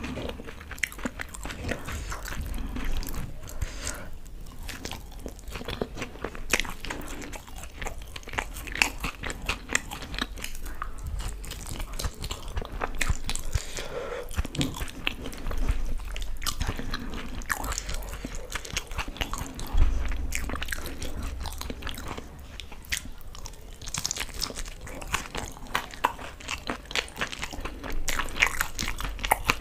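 Close-miked chewing and biting of fried chilli pakoras and fritters soaked in green chutney: a steady run of irregular small clicks, smacks and crunches from the mouth.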